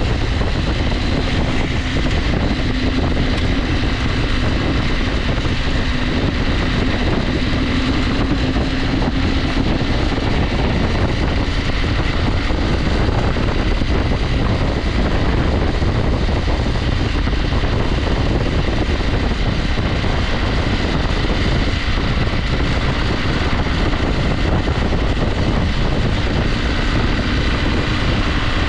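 KTM 890 Adventure's parallel-twin engine running steadily while the motorcycle rides along, its note wavering slightly in the first several seconds and then holding, with wind noise on the microphone.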